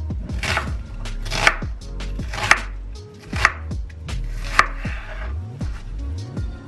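Sharp knocks, about one a second, over background music with a low bass line.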